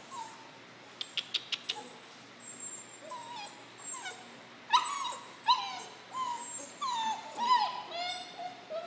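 A puppy giving a series of short, high-pitched yips and whimpers, the loudest about five seconds in. A quick run of clicks comes about a second in.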